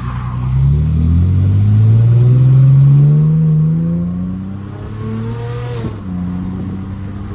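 Straight-piped 3.5-litre V6 exhaust of a tuned 2009 Mercedes-Benz C350 under hard acceleration, its note climbing steadily and peaking in loudness around three seconds in. The pitch drops about four seconds in and climbs again, then falls sharply about six seconds in and settles to a steady drone.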